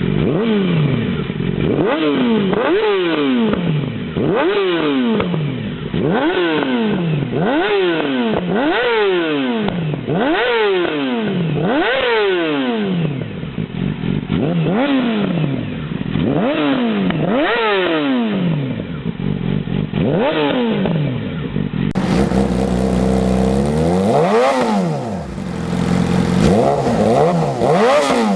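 Yamaha YZF-R6 inline-four sport-bike engine revved over and over through an aftermarket exhaust, each rev climbing sharply and falling back, about one every one and a half to two seconds. About two-thirds of the way through, a different recording takes over: the engine idles steadily and is revved twice.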